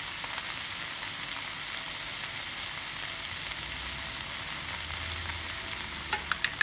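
Vegetables stir-frying in a hot wok, a steady sizzle. A few sharp clacks come near the end.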